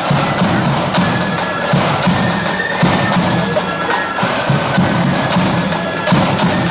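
Marching flute band playing: flute melody over snare drums and a pounding bass drum.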